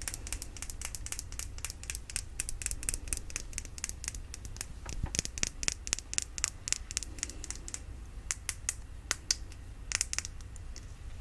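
Rapid, light tapping and scratching on a small glass mini perfume bottle: many sharp little clicks a second, with a short pause about eight seconds in.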